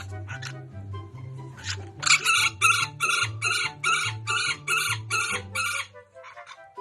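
A bird calling about ten times in quick, even succession, loud and shrill, over background music with a repeating bass line.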